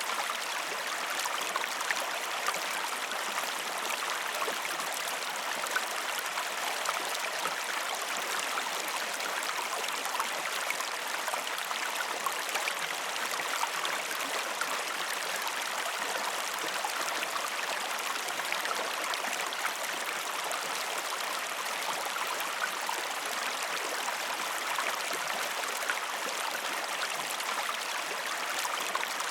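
Waterfall and stream water running steadily, a constant rushing splash with fine droplet patter throughout.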